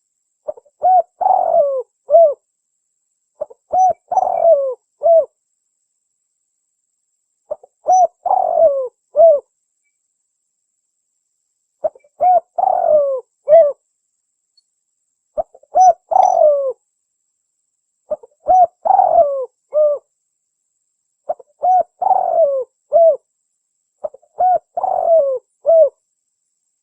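Spotted dove cooing: a short phrase of three or four coos, repeated about eight times every three to four seconds, with silence between phrases.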